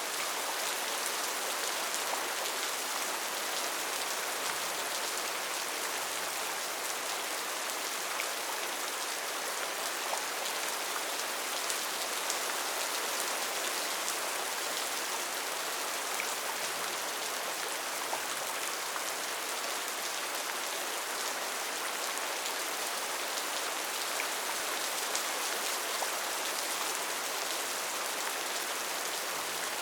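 Steady heavy rain falling on foliage, an even hiss dotted with the ticks of individual drops.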